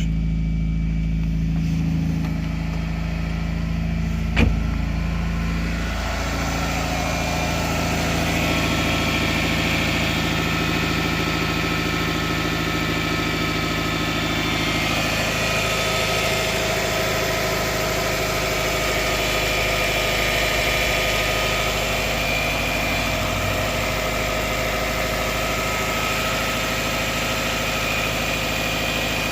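Subaru Forester's flat-four boxer engine idling steadily just after starting on a newly fitted lithium starter battery, with one sharp click about four seconds in.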